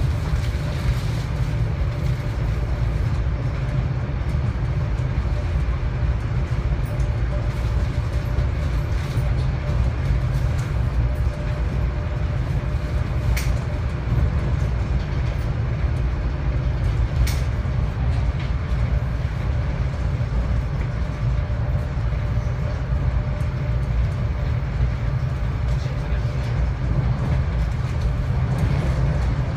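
Interior ride noise of a SEPTA Regional Rail commuter train running at speed: a steady low rumble of wheels on the rails with a faint steady hum. There are two sharp clicks about four seconds apart near the middle.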